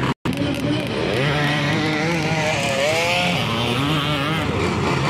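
Several motocross/enduro dirt bikes revving, their engine pitch rising and falling as they work through the track. The sound drops out for a split second just after the start.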